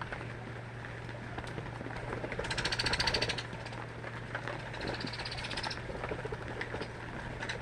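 A bird giving two fast rattling trills, the first loudest, the second rising slightly in pitch, over a steady hiss of rain and a low hum.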